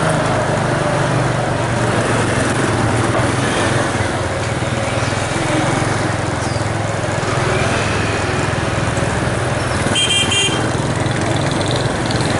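Steady vehicle engine and road noise, with a short high-pitched beep about ten seconds in.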